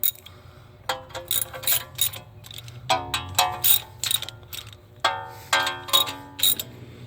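Hand ratchet clicking in three bursts of rapid strokes, with a light metallic ring, as small bolts are run down and snugged up by hand rather than torqued.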